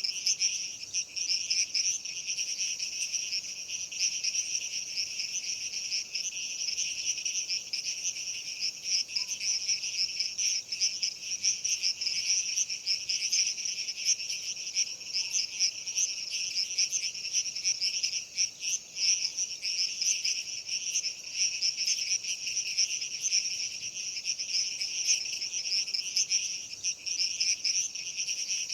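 Dense, steady chorus of insects chirring continuously in a high, finely pulsing shimmer.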